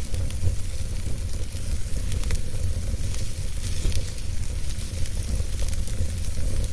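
Wood fire burning in a fireplace: a steady low rumble and hiss with frequent sharp crackles and pops from the burning logs.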